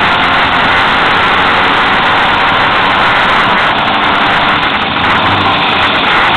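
Fiat 126 hillclimb car's engine running hard at high revs under acceleration, heard from onboard, loud and overloading the microphone with wind and road noise mixed in. The sound eases slightly about four to five seconds in as the car slows for a hairpin.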